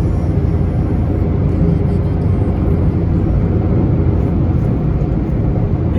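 Steady road and engine noise heard inside a car's cabin at highway speed: a low, even rumble of tyres and engine with no distinct events.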